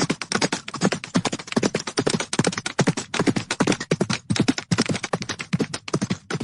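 Horses galloping: a fast, dense, uneven run of hoofbeats on firm ground.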